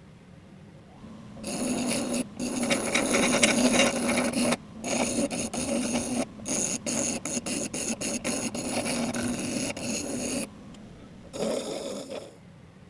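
Restored bench grinder's wheel grinding a piece of metal, a rough rasping that starts about a second and a half in. It breaks off in quick repeated stretches, then comes back for one short final burst near the end.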